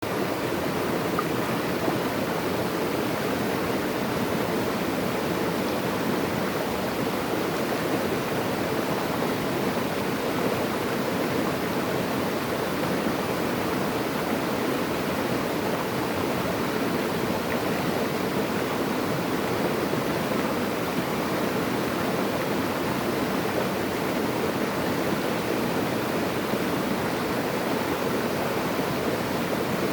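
Natural running water, a steady even rush with no breaks or changes.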